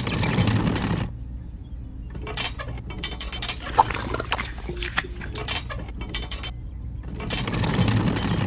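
Small geared motor of a DIY model tractor whirring, with scattered clicks and rattles in a quieter middle stretch; the loud whir stops about a second in and starts again near the end.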